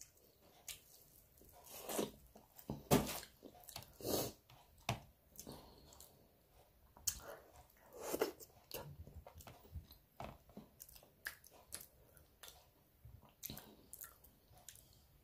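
Close-up mukbang eating of sauce-covered fresh corn: irregular biting and chewing with wet crunches and mouth smacks, the loudest a few seconds in.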